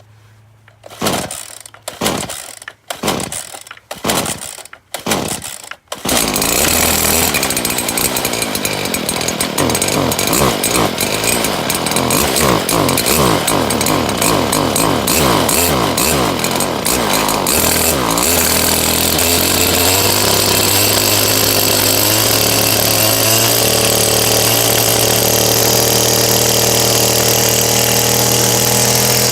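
Stihl FS70RC two-stroke string trimmer cold-started on choke after priming: several rope pulls, then the engine catches about six seconds in. It runs unevenly, rising and falling in speed, and settles into a steady idle near the end.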